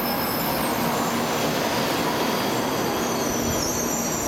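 700 Series Shinkansen trainset running slowly past as it arrives at the platform: a steady rumble and rush of wheels on rail, with thin high-pitched tones above it.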